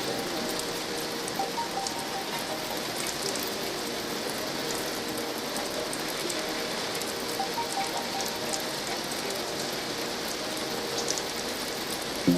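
Steady rain pattering, with faint scattered crackles from a log fire.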